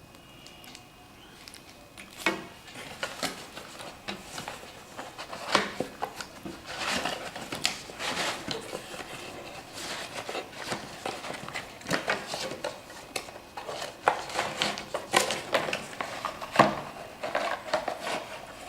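Packaging and the parts of a car LED ambience light kit being handled and unpacked: irregular crinkles, clicks and light knocks, beginning about two seconds in.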